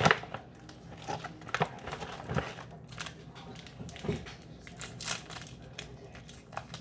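Chocolate packaging crinkling and rustling as it is handled, in irregular crackles.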